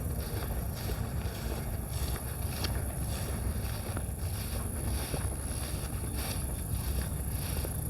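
Steady wind rumble on the microphone, with faint footsteps of someone walking along a trail.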